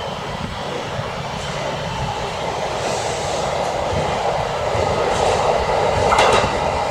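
Electric commuter train running on the tracks, its rumble slowly growing louder as it approaches, with a few sharp wheel clacks about six seconds in.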